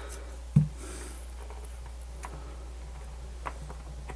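A soft knock about half a second in and a few faint scattered clicks from small hand work on a plastic radio case being taken apart, over a steady low electrical hum.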